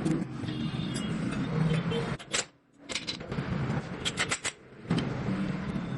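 Sharp metallic clinks and taps of tools and small engine parts being handled, over a steady background hum of traffic and workshop noise, with two brief lulls.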